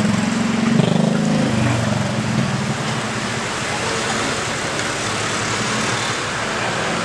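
Street traffic noise: a motor vehicle engine running close by, loudest for the first couple of seconds and then fading into a steady traffic din.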